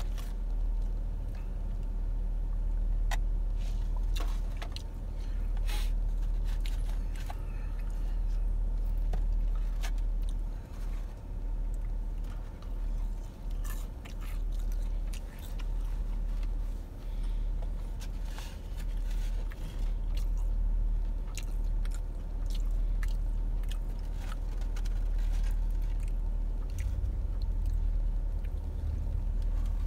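Close-up chewing and biting of crispy fried chicken fingers, with irregular crunches and wet mouth clicks. Under it is a steady low hum inside the car.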